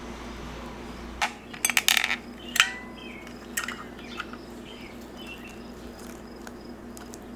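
Kitchenware clinking and knocking: a few sharp clinks in the first few seconds, one ringing briefly like a dish or glass. After that only a faint steady background hum with a faint high chirping.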